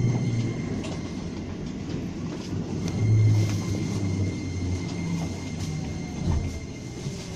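Keikyu Line electric train heard from inside the passenger car, pulling into its terminal station: a low rumble of wheels and motors with a shifting hum and a few faint clicks.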